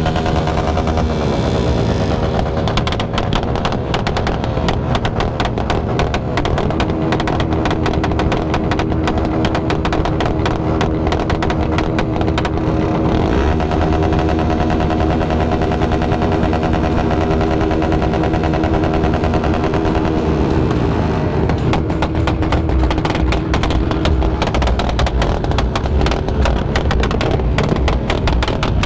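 Motorcycle engines revving at a bike meet, with rapid crackling pops from the exhausts that come thickest in the first half and again near the end. Music plays underneath.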